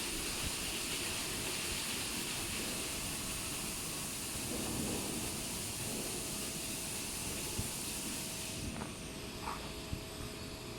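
Double-arm touchless car wash machine running, a steady hiss of its high-pressure jets. The hiss thins out about nine seconds in, with a few faint knocks near the end.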